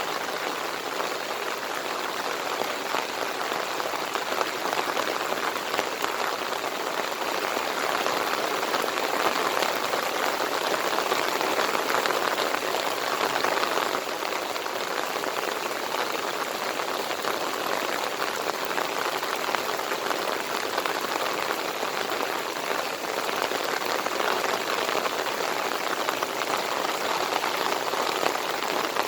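Heavy monsoon rain pouring steadily, a dense hiss of drops striking surfaces, slightly heavier for a few seconds in the middle.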